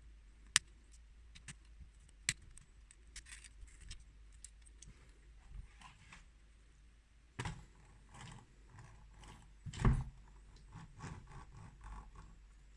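Small plastic building bricks clicking and rattling as they are handled and snapped together, with sharp single clicks about half a second and two seconds in and a louder clatter about ten seconds in.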